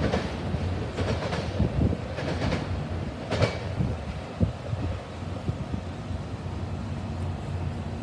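Mixed freight train rolling away on the track: steel wheels clicking over the rails over a low rumble. The clicking thins out about halfway through as the sound fades.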